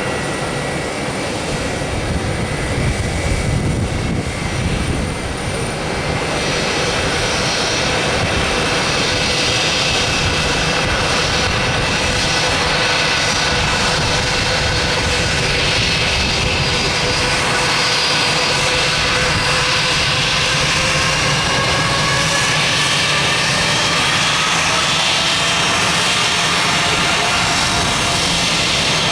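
Airbus A321's IAE V2533-A5 turbofan engines running, a loud, steady jet noise with several whining tones that slowly fall in pitch over the last several seconds.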